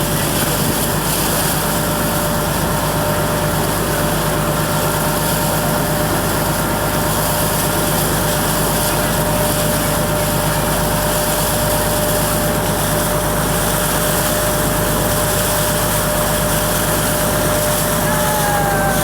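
Motorboat's engine running steadily under way, with a thin steady whine over the engine.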